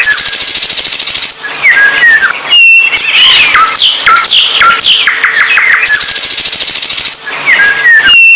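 A songbird singing loudly and continuously: a rapid, varied song of downward-sweeping whistled notes and sharp chips, with a fast high buzzing trill at the start. The same run of phrases comes round again a little past halfway.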